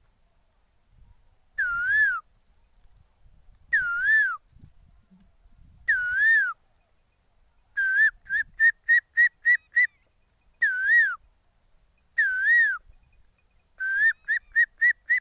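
A man whistling an imitation of the Asian koel's call: a swooping whistle repeated five times, broken twice by a quick run of short notes, about five a second.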